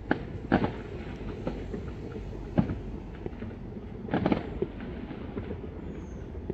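Scattered firework bangs, a handful of sharp pops with a quick cluster about four seconds in, over a steady low rumble.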